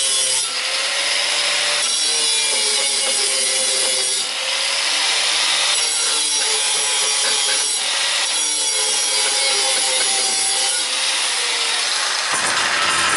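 Power grinder abrading galvanized steel, cleaning the coating off the ends for tack welding; a steady rasping grind whose motor pitch wavers as it is pressed. The sound changes about twelve seconds in.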